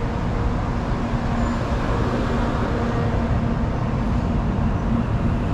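Tokaido Shinkansen N700-series train pulling out of the station at low speed: a steady rumble of wheels and running gear with a low hum.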